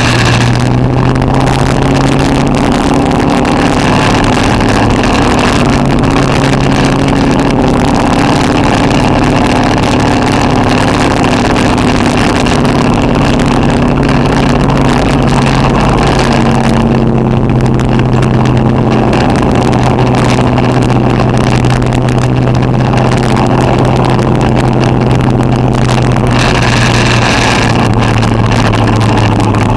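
Street stock race car's engine heard from inside the car, running loud and steady at speed, its pitch shifting only slightly with throttle.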